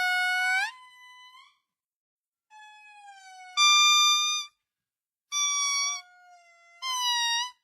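A pet animal calling in drawn-out high cries, about five in a row, each ending with a short upward bend; in places two voices overlap.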